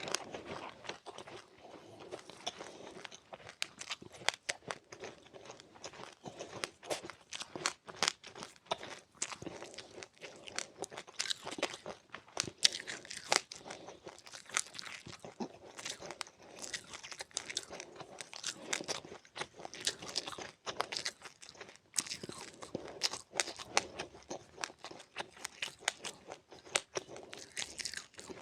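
A person chewing crunchy seeds close to the microphone: many sharp, irregular crunches in quick succession, with wetter chewing between them.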